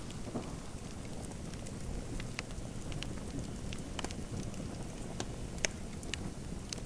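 Wood fire in a fireplace crackling: a steady low rumble with irregular sharp pops, the loudest a little past halfway.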